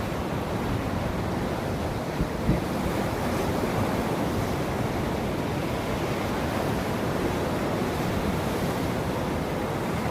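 Ocean surf: waves breaking and washing on a shore in a steady, even rush, with a brief low thump about two and a half seconds in.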